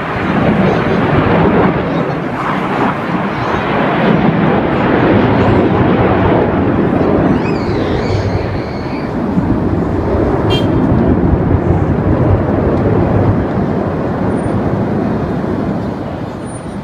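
Loud aircraft engine noise at an airshow flypast: a steady roar that swells twice and eases off near the end.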